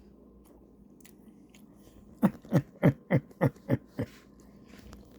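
A person chewing crunchy food: about seven sharp crunches in quick succession, starting about two seconds in and stopping about two seconds later.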